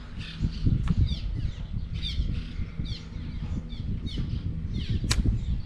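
Small birds calling over and over with short down-slurred chirps, about one or two a second, over a steady low rumble. There is a sharp click about five seconds in.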